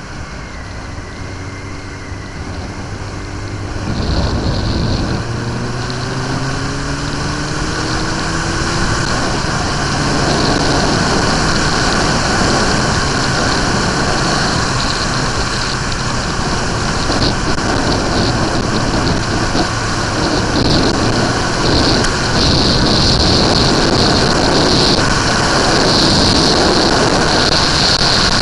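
Suzuki GSX-R 1100 motorcycle's inline-four engine pulling away. About four seconds in it gets louder and its pitch rises over several seconds, then it settles at speed under a louder, steady rushing noise.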